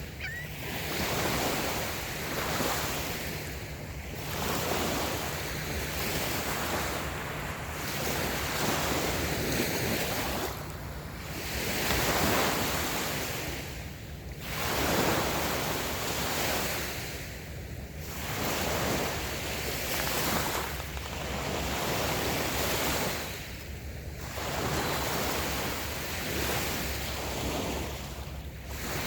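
Light waves washing in on a beach, the surf swelling and falling back about every three to four seconds.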